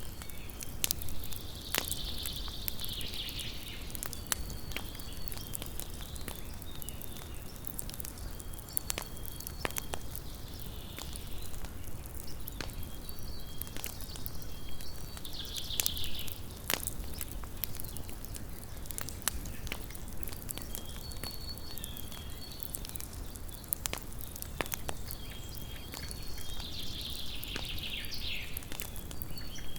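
Small wood campfire crackling, with frequent sharp pops over a low steady rumble. High chirping calls and short high notes sound in the background, strongest about two seconds in, around the middle and near the end.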